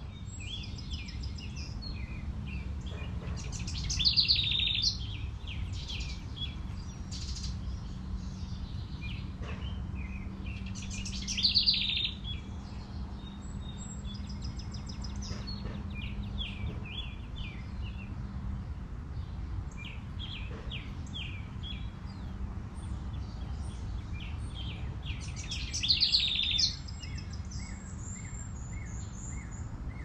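Songbirds chirping and calling throughout, with one bird singing a loud song phrase about a second long three times, several seconds apart. A steady low hum and rumble run underneath.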